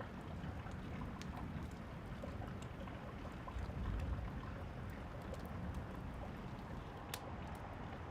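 Steady rain with scattered crackling clicks from a wood fire, and a low rumble of distant thunder swelling around the middle.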